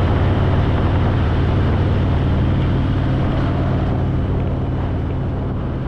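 Harley-Davidson Fat Boy's V-twin engine running steadily on the move, with wind rushing over the microphone. The sound eases slightly in level near the end.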